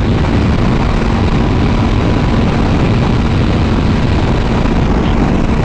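Motorcycle running at steady highway speed: loud wind rush over the helmet microphone with the engine's drone underneath at an unchanging pitch.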